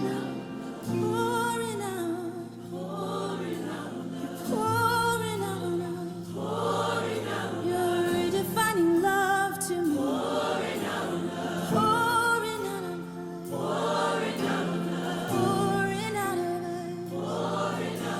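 Recorded gospel worship song: a choir singing long, wavering phrases over sustained low notes.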